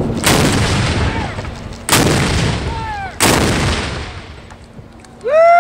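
Three 32-pounder cannons firing one after another, a sharp boom each, first about a second and a half apart and then a little quicker, each shot followed by a long fading tail. Near the end a person lets out a loud, held whoop.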